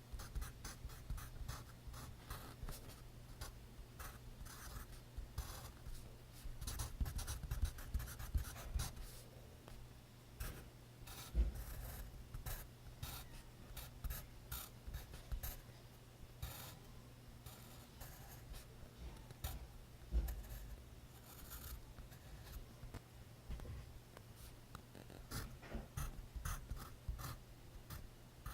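Pencil writing on notebook paper: quick, irregular scratching strokes, with a few soft thumps in between.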